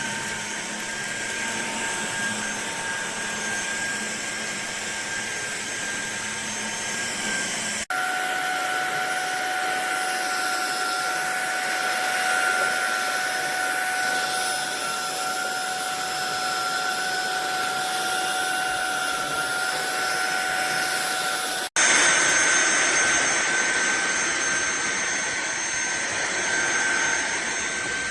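Fieety cordless stick vacuum cleaner running: a steady high motor whine over rushing air. It cuts off abruptly about 8 seconds in and again about 22 seconds in, each time resuming at a slightly different pitch.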